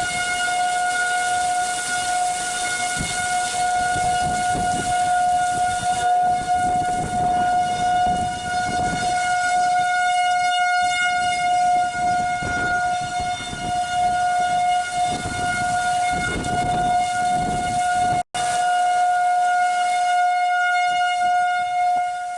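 A storm warning siren sounding one steady tone, without rising or falling, over the rush and gusts of wind and rain. The sound cuts out for an instant near the end.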